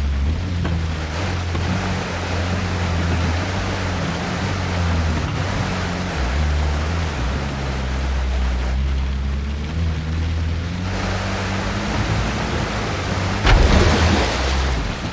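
Heavy rain and rushing water making a steady hiss, with a low drone underneath that steps up and down in pitch. A single sharp knock comes about thirteen and a half seconds in, followed by a brief louder wash of noise.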